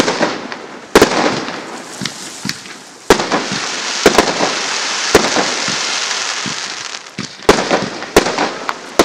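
Whispering Palms 40-shot firework cake firing its shots: about eight sharp bangs at uneven intervals, roughly one a second. A dense crackling hiss from the palm bursts fills the gaps between the bangs.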